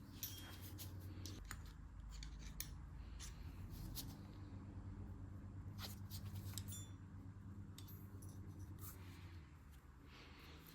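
Faint scattered clicks and light scraping of small brake caliper parts being handled while a rubber seal is fitted into the caliper, over a steady low hum.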